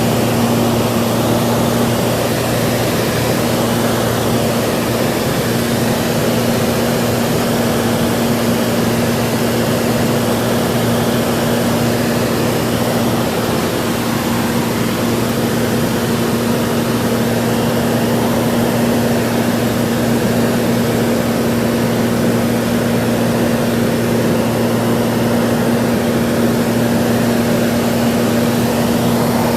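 Cessna 182 single-engine propeller aircraft in cruise flight: a steady engine and propeller drone holding one low pitch throughout.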